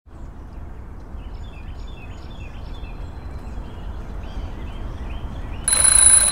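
Morning ambience: a steady low rumble with small birds chirping in short repeated calls. About five and a half seconds in, an alarm clock starts ringing loudly.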